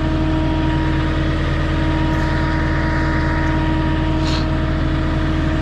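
Truck-mounted forklift's engine running steadily, a constant even drone with no change in speed.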